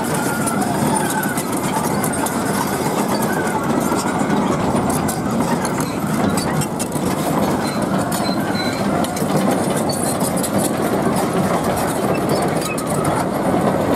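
Heavy truck diesel engine running steadily, with voices in the background.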